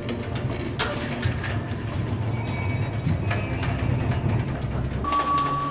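Film-soundtrack ambience: a steady low rumble with scattered sharp clicks and knocks, and a brief high thin tone about two seconds in. Held music notes come in near the end.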